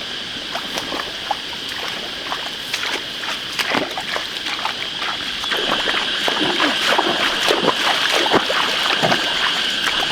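Splashing and sloshing of muddy pond water as fish are caught by hand, the strokes irregular and getting busier and louder about halfway through.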